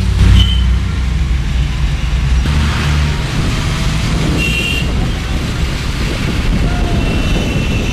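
Steady low rumble of road traffic, heaviest in the first few seconds, with short high-pitched beeps about half a second in, near the middle and again near the end.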